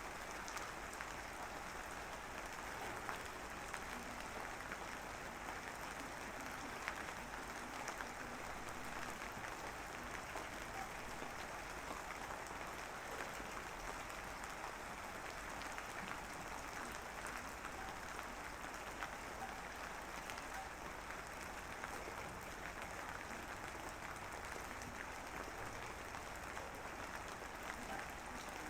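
Rain falling steadily, an even hiss with scattered small drop ticks.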